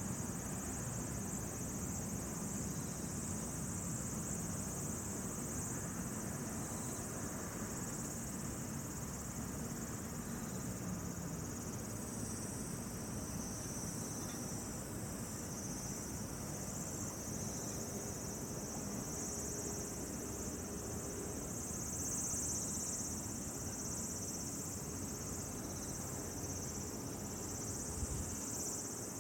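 Steady chorus of insects, crickets or similar, singing in a continuous high-pitched band, with a low background hiss and a brief low thump near the end.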